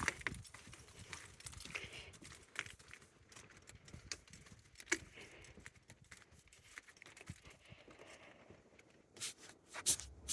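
Footsteps crunching through dry, brittle leaf litter, with irregular crackles and the loudest crunches near the end.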